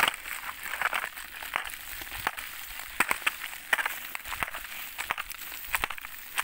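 Dry brush and twigs crunching and crackling underfoot, an irregular run of sharp snaps.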